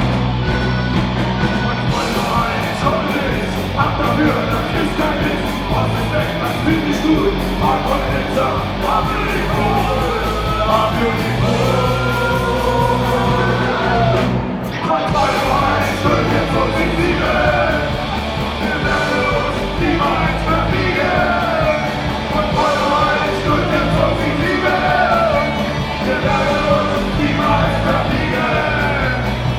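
Live band playing a song with a lead vocalist singing over a steady, prominent bass line. The music drops out briefly about halfway, then comes back in.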